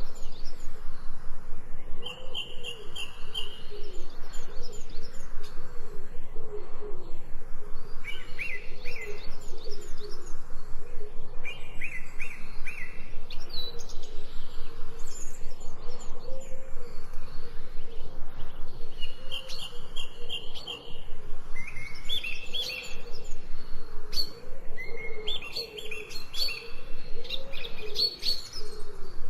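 Birds chirping in short high phrases every few seconds, over a steady run of low calls repeated several times a second.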